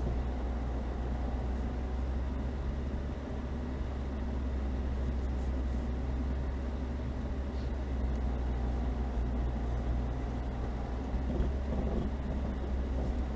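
Chevrolet Niva's engine running steadily under light load as the car drives slowly over snow, a continuous low hum.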